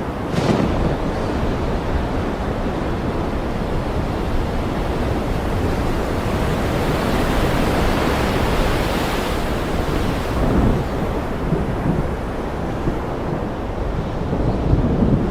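Ocean surf breaking and washing in continuously, with thunder: a sharp crack just after the start and low rumbles later. A wave swells up and hisses through the middle.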